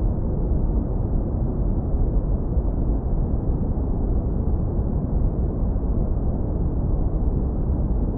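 Synthesized brown noise, low-pass filtered so that only a deep, warm rumble remains: a steady hiss with nothing above the low and middle range. It holds at an even level throughout, with no changes or events.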